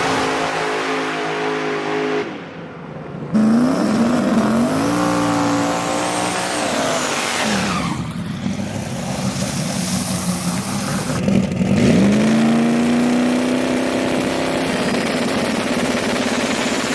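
A drag-racing truck's engine runs steadily, goes briefly quieter, then launches loudly about three seconds in. Its pitch climbs and holds, drops, then climbs again as it accelerates down the strip.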